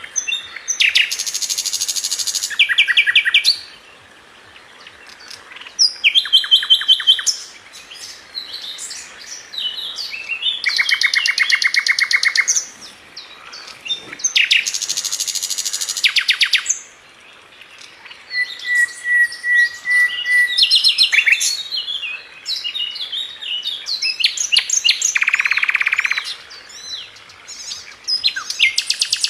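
Sikatan London flycatcher singing: fast, dense trills repeated several times, alternating with varied sharp chirps and short pauses. A short, steady whistle comes about two-thirds of the way through.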